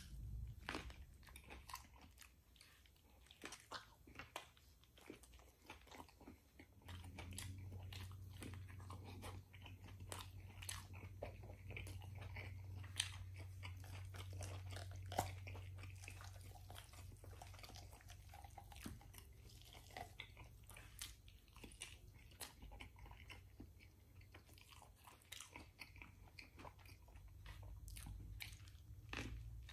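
Close-up chewing of rotisserie chicken and pita bread, with many small wet smacks and mouth clicks. A low hum runs underneath for about ten seconds from about seven seconds in.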